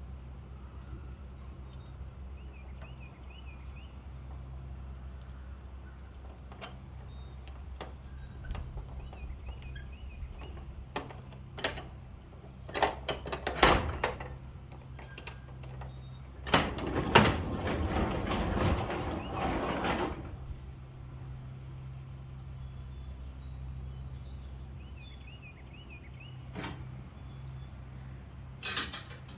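Scattered knocks and clanks, then a loud rattling, sliding sound lasting about three and a half seconds a little past the middle, with a last knock near the end, over a steady low hum; a bird chirps three times.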